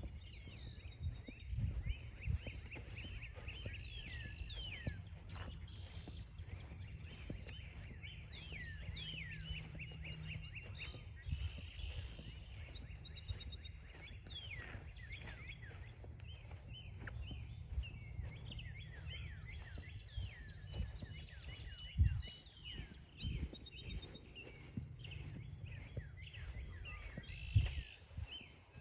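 A chorus of wild birds calling over one another, many short chirps and sliding notes throughout. Footsteps crunch along a trail, with a few heavier thumps and a low rumble underneath.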